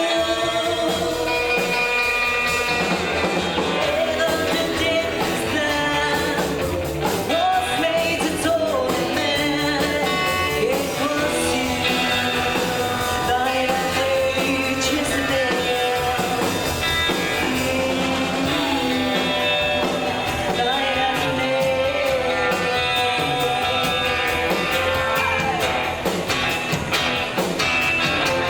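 Live rockabilly band playing a song, with a lead voice singing over guitar.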